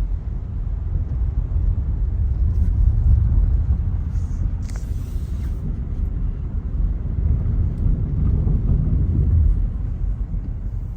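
Steady low rumble of a car's tyres and engine heard from inside the cabin while driving, swelling slightly about three seconds in and again towards the end.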